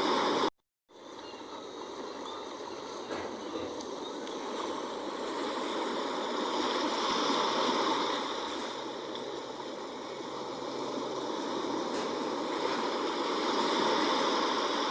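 Sea waves washing in, a steady rush of water that swells and eases in slow surges. There is a brief dropout to silence about half a second in.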